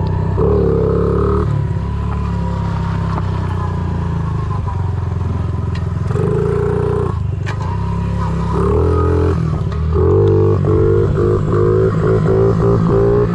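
Honda CRF50 pit bike's small single-cylinder four-stroke engine running while ridden, rising in surges as the throttle is opened and eased, with near-continuous throttle in the last few seconds. A couple of sharp clacks sound near the middle.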